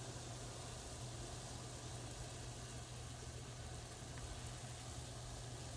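Steady low hum with an even faint hiss over it.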